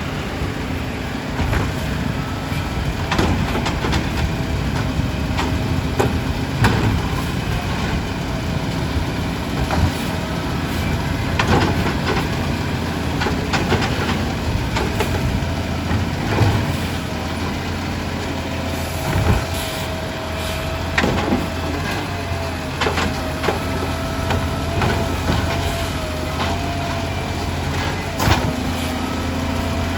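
Garbage truck running with a steady engine drone and a thin whine, with scattered clanks and knocks throughout.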